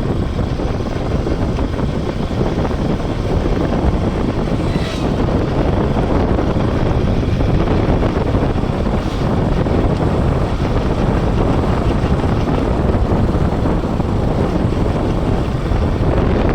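Steady wind rush on the microphone of a moving Bajaj Pulsar NS200 motorcycle, its engine running underneath while riding.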